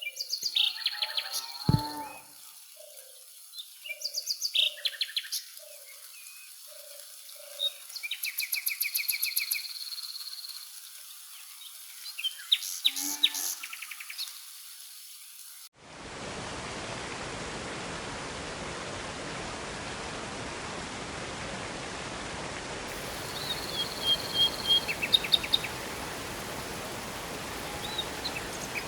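Forest birds calling: repeated chirps and rapid trills from several birds. About halfway through, the sound cuts abruptly to a steady rush of flowing water, with a few more bird chirps over it.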